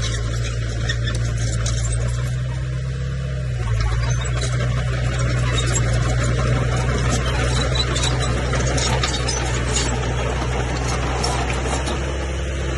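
Komatsu bulldozer's diesel engine running steadily, its note stepping up slightly about four seconds in, with scattered light clanks and rattles.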